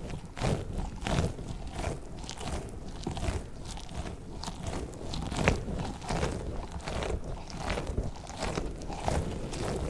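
Hands working an orange squishy slug toy close to the microphone, a dense, irregular run of small crackling clicks and soft squishes, with one sharper click about halfway through.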